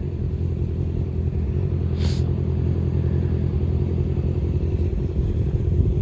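Engine idling steadily with a low, even rumble, and one faint click about two seconds in.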